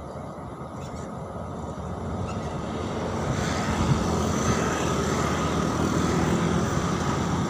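Diesel-electric locomotive hauling a passenger train approaches, its rumble growing steadily louder as it rolls off a steel truss bridge.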